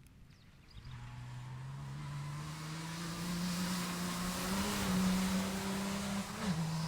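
A cross-country rally car's engine approaching at speed. About a second in, its note comes in and grows steadily louder and higher for several seconds. Near the end it drops in pitch and then holds steady.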